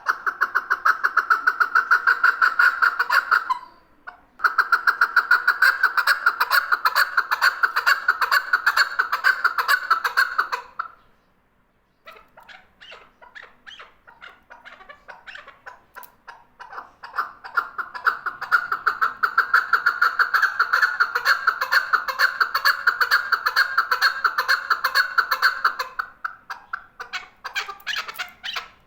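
Male chukar partridge calling: long runs of rapid, evenly repeated notes, with a short break about four seconds in and a brief pause near the middle. After the pause the calls come back quieter, then build to full strength again.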